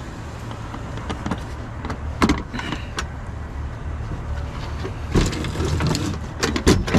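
Vehicle engine running with a steady low hum, broken by several sharp knocks and clatters, with a quick cluster of them near the end.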